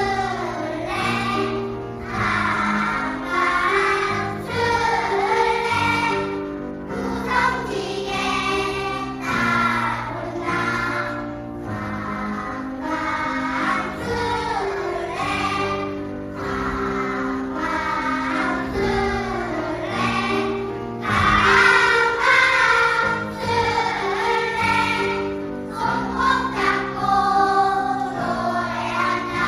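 A choir singing continuously, phrase after phrase, growing louder about two-thirds of the way through.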